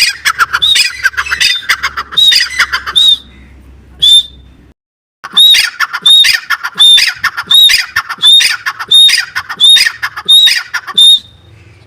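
Male francolin (teetar) calling: a loud, harsh series of high, arched notes repeated about twice a second, breaking off briefly about five seconds in and then resuming.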